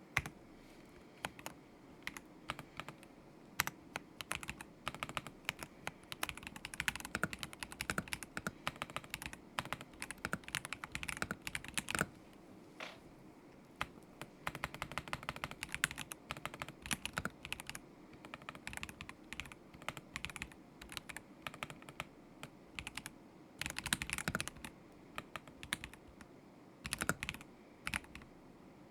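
Typing on a KZZI K75 Pro mechanical keyboard with Moment linear switches: runs of quick keystrokes broken by short pauses, and one longer pause of several seconds past the middle.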